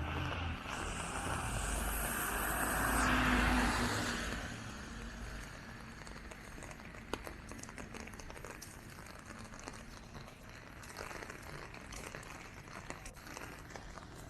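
A car passing on a wet road, its tyre hiss and engine rumble swelling to a peak about three seconds in and then fading. Steady street ambience with scattered small ticks follows.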